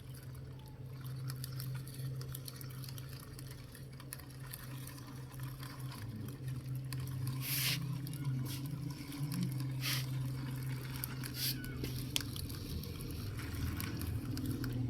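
A toy vehicle's small electric motor runs with a steady hum whose pitch wavers a little. A few sharp clicks and rattles break in, three of them clearly in the second half.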